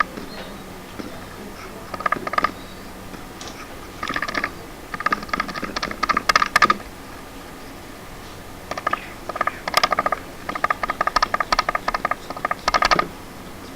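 Rapid light clicking in bursts of half a second to two seconds, with short pauses between, busiest in the second half.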